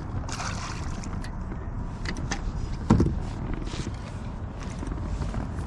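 Fishing reel winding in a hooked fish: a steady low whir with scattered sharp clicks and a single knock about three seconds in.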